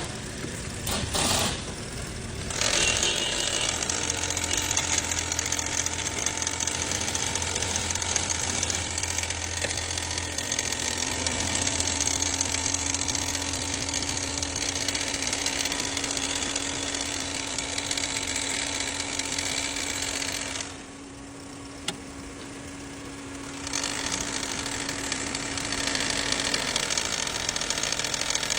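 Vehicle engine running with a continuous mechanical clatter, the unexplained noise being checked. The sound drops for about three seconds some two-thirds of the way through, then picks up again.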